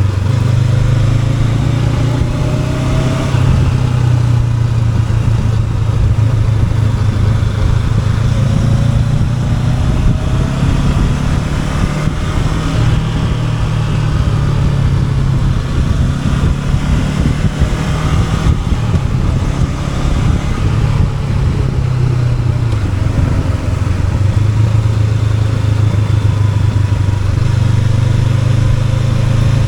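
Honda NX500's 471 cc parallel-twin engine running steadily while the motorcycle is ridden, the revs rising and falling a few times.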